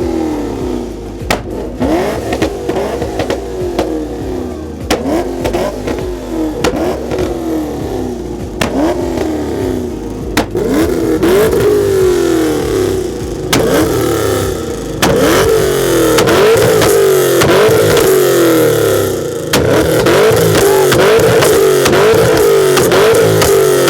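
A car engine revved over and over, about one rev a second, each rev rising in pitch and dropping back; the revving gets louder about two-thirds of the way through.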